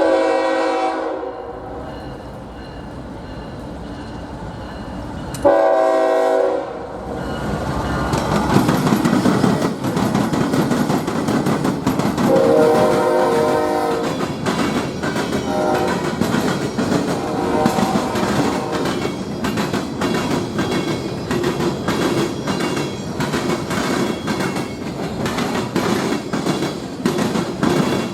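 A locomotive's multi-tone air horn sounds two blasts about five seconds apart, then the train rolls past close by, rumbling steadily. The horn sounds a few more times more weakly, and in the second half the wheels click over the rail joints in a steady rhythm.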